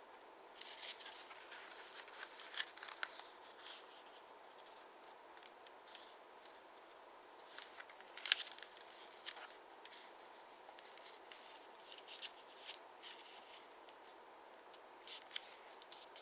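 Sheet of origami paper being handled and folded: short crisp crinkles and scrapes as the paper is creased, coming in a few separate bursts, the loudest about eight seconds in.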